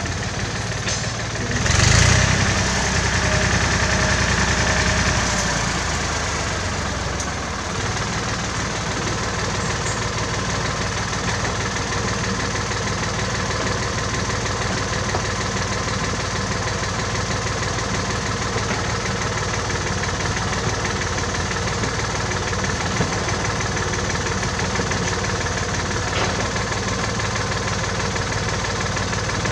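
Engine of a 1967 David Brown tractor running. It is louder for a few seconds starting about two seconds in, then settles to a steady, even run.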